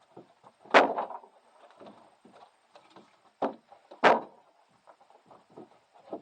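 Pieces of firewood being picked up and tossed onto a pile, landing with sharp wooden knocks. Three loud knocks come about a second in, at three and a half seconds and at four seconds, with smaller knocks and shuffling between.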